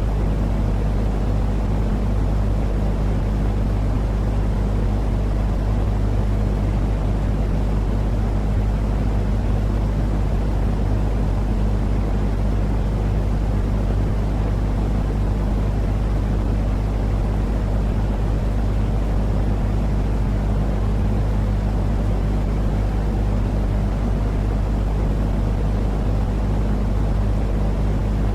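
Steady sleep-aid noise for a baby: an unchanging low rumbling hiss, heavy in the bass with a constant low hum under it.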